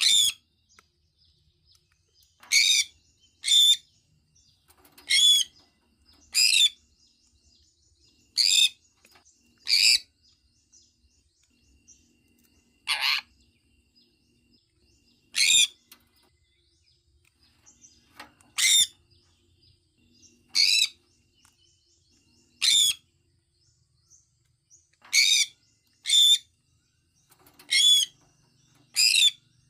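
Sun conure calling: about sixteen short, loud, high-pitched calls, one every one to two seconds and often in pairs, with quiet between them.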